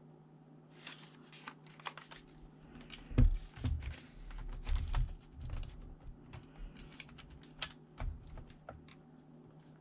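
Irregular clicks, taps and a few dull knocks of a laptop's plastic parts being handled and worked on, the loudest knocks a few seconds in.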